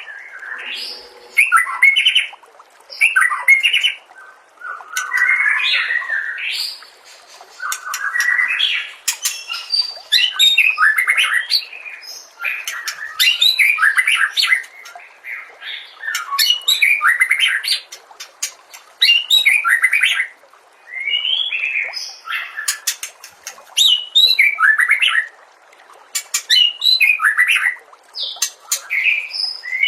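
White-rumped shama (murai batu) singing a rapid, varied run of song phrases, one after another every second or two, with sharp clicking notes mixed in.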